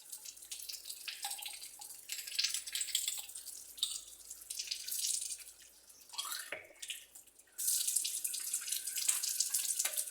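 Water from a tap splashing unevenly into a sink, then running in a steady stream from about seven and a half seconds in.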